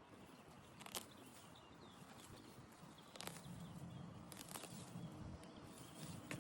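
Faint outdoor background with a few sharp clicks or taps scattered through it, one about a second in, others around the middle and near the end.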